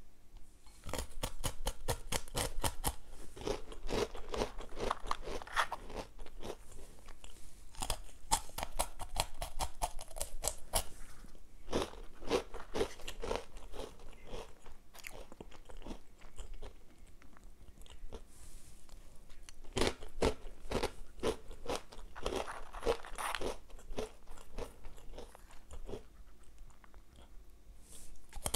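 Close-up crunching and chewing of Nutella & Go breadsticks dipped in chocolate-hazelnut spread: crisp bites and chews in clusters, with a few short pauses.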